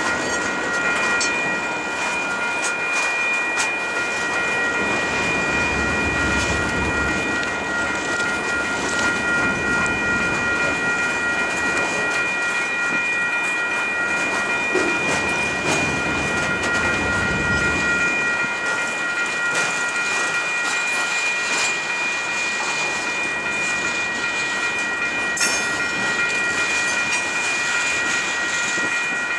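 Union Pacific mixed freight train's hopper and tank cars rolling steadily past at close range, wheels clacking over the rails. A steady high-pitched ringing tone runs over it throughout.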